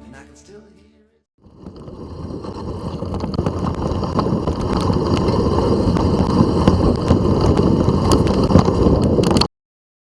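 Mountain bike in motion: wind buffeting the microphone and tyres rolling over a dirt trail, with frequent clicks and rattles. It grows louder over the first few seconds and then cuts off suddenly near the end.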